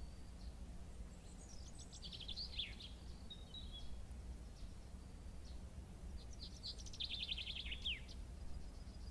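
A songbird singing two short, fast trilled phrases about five seconds apart, each falling in pitch at the end, over a steady low outdoor rumble.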